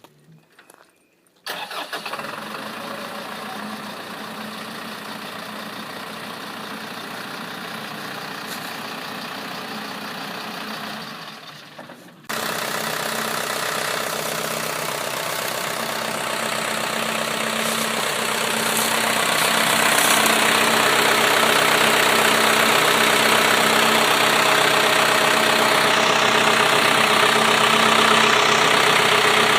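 2000 GMC W4500 truck engine running at idle. It fades away around eleven seconds in, then comes in again suddenly and louder, and grows louder still near twenty seconds.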